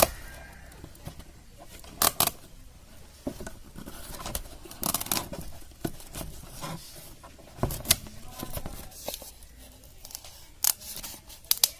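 A piece of plastic or foam board being handled and cut to size to close off a washing machine's drain opening: irregular short snips, scrapes and clicks, with a sharper knock at about 2 s and another near 8 s.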